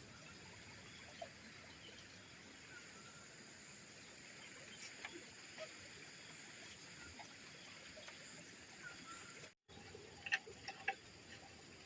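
Faint forest ambience: a steady high insect drone with scattered small clicks and ticks. Near the end the sound cuts out briefly, then a few sharper knocks follow.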